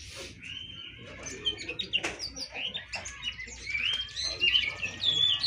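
Songbirds chirping and whistling: a busy run of short rising and falling notes that grows denser in the second half.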